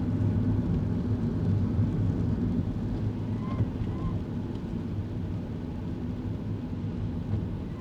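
Steady in-cabin drone of a kei car on the move: a low engine hum with road and tyre noise. Twice a faint short squeak is heard, half a second apart, about three and a half seconds in.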